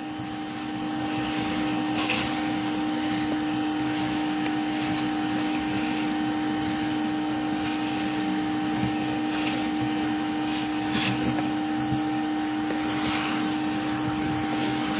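Vacuum motor running steadily with a constant hum, with a few faint clicks now and then.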